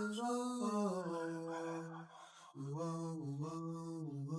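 Low male voice chanting in long held notes, in two phrases with a short break about two seconds in, heard as background music.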